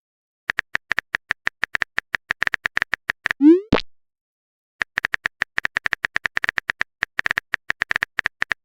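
Phone-keyboard typing sound effect: rapid clicks, about ten a second, in two runs. Each run ends in a short rising pop, the message-sent sound, the first about three and a half seconds in and the second at the very end.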